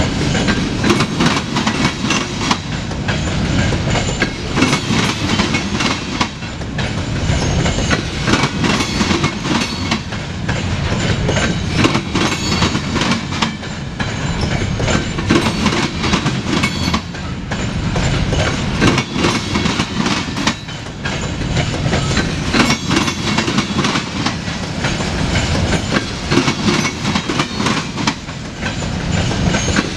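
Freight train of covered hopper cars rolling past, a steady loud rumble of steel wheels on rail with repeated clicks as the wheel sets pass over rail joints.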